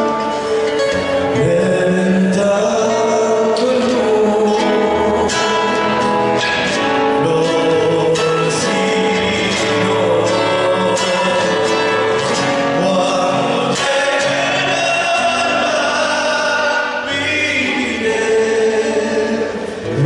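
Argentine folk song: singing, with more than one voice, over instrumental accompaniment.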